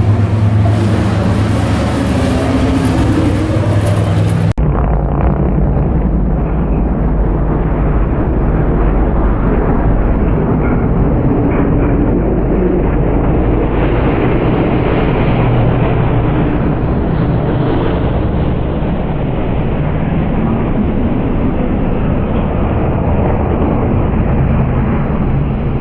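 Engines of several truck stock race trucks running at speed around the oval, a steady loud drone. About four and a half seconds in the sound cuts out for an instant and comes back duller.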